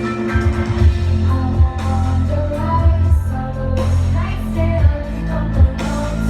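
Pop song playing, with a woman singing over a heavy bass beat.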